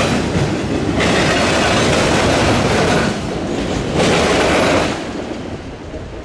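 Freight train cars rolling past, their steel wheels clattering over the rail joints of a railroad diamond crossing. The clatter drops away sharply about five seconds in.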